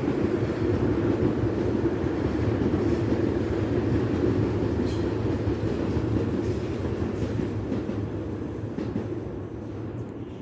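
Tobu Tojo Line electric commuter train running past with a steady low rumble, which fades away over the last few seconds as the train moves off.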